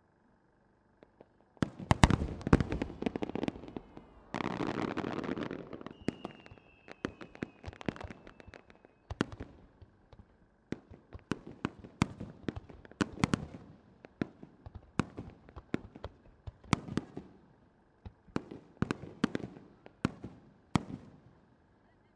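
Aerial firework shells bursting in a rapid, irregular barrage of sharp bangs, starting about a second and a half in. A dense stretch of crackling comes about four to six seconds in.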